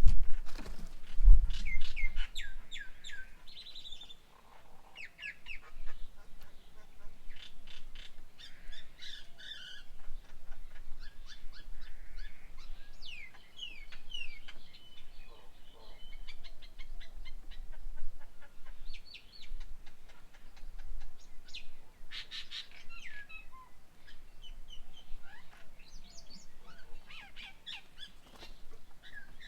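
Birds chirping and calling in many short, quick notes, several at once, with two heavy low thumps in the first second and a half.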